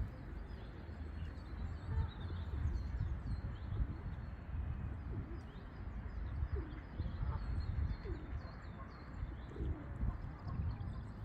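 Small birds chirping throughout, with a few low cooing calls in the second half, over a steady low rumble.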